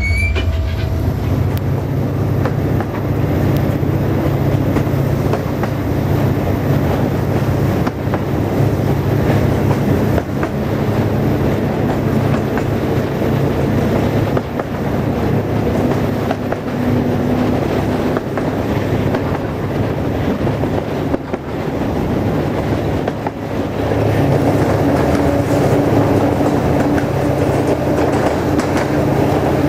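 Passenger railway coach running along the track, heard from inside: a steady rumble of wheels on rails with clicks from the rail joints.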